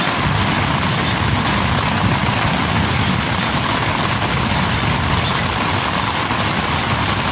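Heavy rain pounding steadily on tent fabric, with a low rumble underneath.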